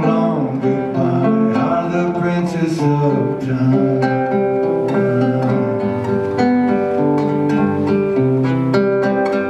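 Acoustic guitar playing an instrumental passage of a slow song.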